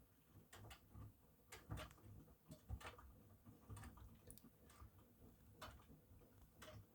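Faint, irregular clicks and soft low knocks from a Miele washing machine at work.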